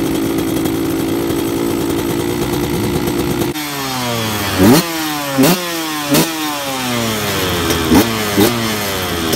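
Dirt bike engine running at a steady pitch, then from about three and a half seconds in revving hard in a series of quick rising bursts, with the pitch sliding down between them.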